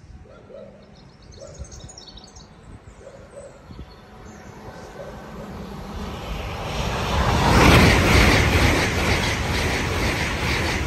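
LNER Azuma high-speed train approaching and passing at speed: a rushing noise of wheels on rail and moving air that builds over several seconds and becomes loud about seven seconds in, staying loud as the coaches go by.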